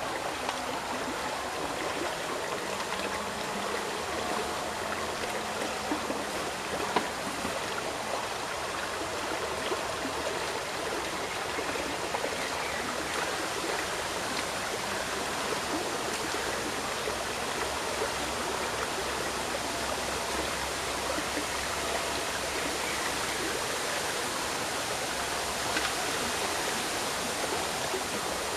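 Steady rushing of flowing river water, with a short tick about seven seconds in and another near the end.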